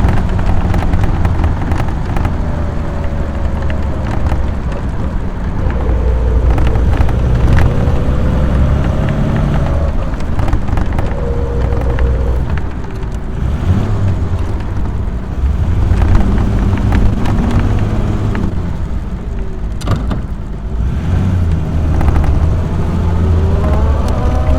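AC Buckland's 2-litre straight-six engine running under way, heard from on board the car, with road noise. The revs dip about twenty seconds in, then climb again near the end.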